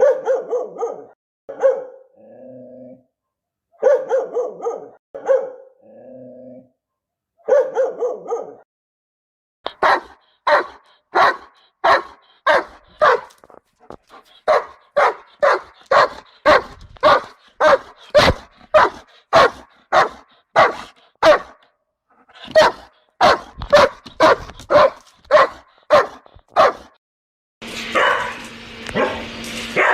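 Angry dogs barking aggressively, in a run of separate recordings. For the first nine seconds, clusters of barks alternate with short steady tones. Then comes rapid, even barking at about two barks a second. Near the end, a noisier recording starts with a steady hum under the barks.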